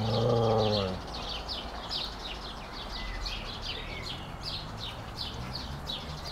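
A low, drawn-out dog grumble in the first second. Then a small bird chirps over and over, two or three quick falling notes a second, with faint low grumbling underneath.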